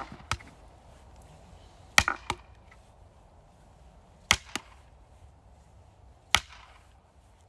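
Axe splitting firewood by hand: sharp chopping strikes on wood about every two seconds, each of the later ones followed closely by a lighter knock.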